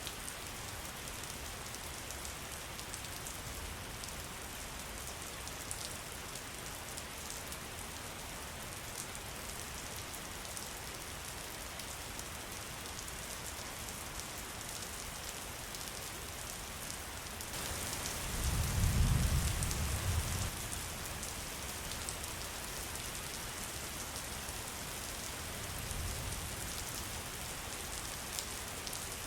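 Steady rain falling, growing heavier about two-thirds of the way through. A low rumble of thunder rolls in near the same point and fades after about two seconds, and a fainter rumble follows near the end.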